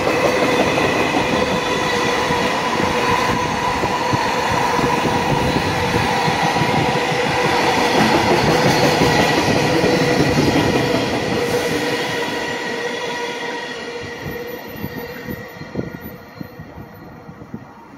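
Container freight train running past on the neighbouring track: a loud, steady rumble of wheels on rail with a steady whine through it. It fades away over the last several seconds as the end of the train passes, leaving a few clicks near the end.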